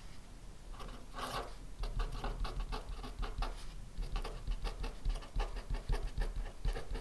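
Handwriting on paper: a quick run of short scratching strokes that starts about a second in.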